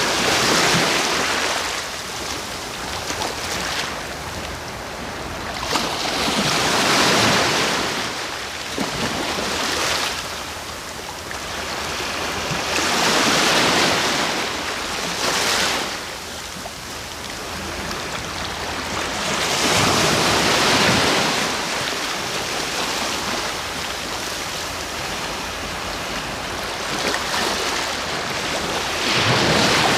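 Sea waves breaking and washing on the shore, a steady hiss of surf that swells into a louder rush about every six to seven seconds.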